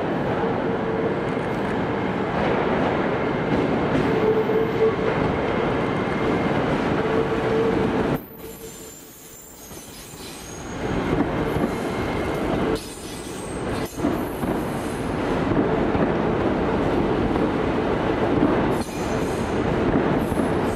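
Hitachi Class 800 intercity train arriving at a station and running slowly past along the platform, with a steady tone through much of the pass. The sound drops away sharply for a couple of seconds about eight seconds in, and a few sharp clicks from the wheels come in the second half.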